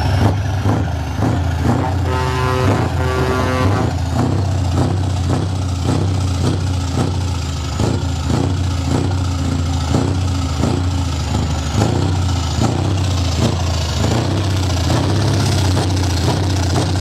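Scania R560's V8 diesel engine idling through loud aftermarket exhaust pipes: a steady deep rumble with a regular throb about twice a second. A brief pulsing pitched tone sounds about two seconds in.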